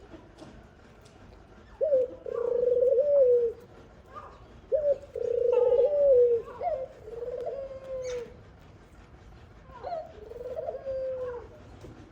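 Dove cooing: three low, gliding coo phrases a few seconds apart.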